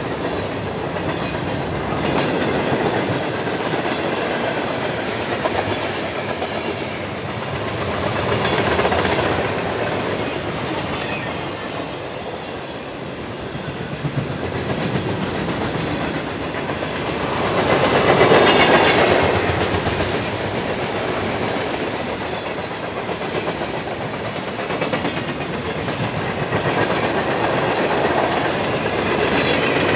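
Freight train cars rolling past, wheels clicking over rail joints, the rumble swelling and easing a few times and loudest a little past the middle.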